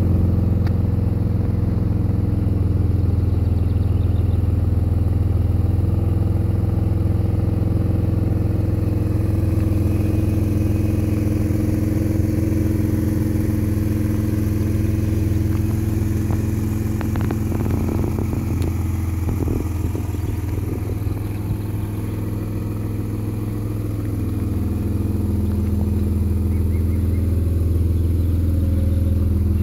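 A car engine idling steadily with a deep low hum, and a few light clicks and rustles about two-thirds of the way through.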